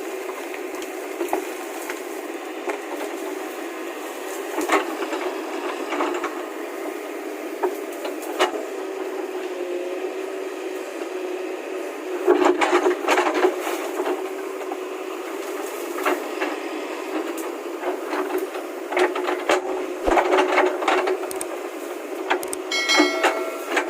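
A motor running at a steady hum with irregular knocks, clanks and rattles on top, busiest about halfway through and again later. A brief high-pitched tone sounds near the end.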